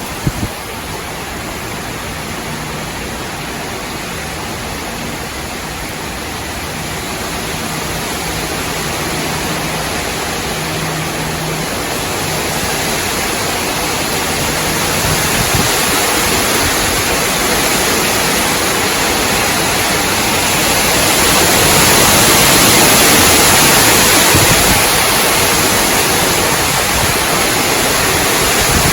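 Strong, gusty wind rushing through the leaves and branches of swaying trees, building to its loudest about two-thirds of the way through.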